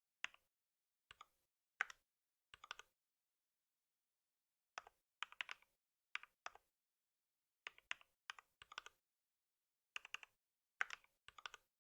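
Computer keyboard typing in short bursts of a few sharp keystrokes at a time, with pauses between, some of them over a second long.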